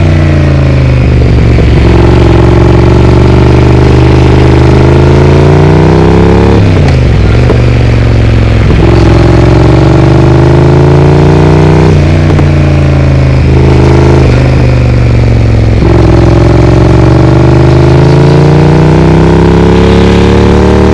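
Triumph Speed Twin's parallel-twin engine through a Vance & Hines aftermarket exhaust, accelerating on the road. Its pitch climbs steadily and then drops sharply several times as it shifts through the gears, with a stretch of choppy on-off throttle in the middle.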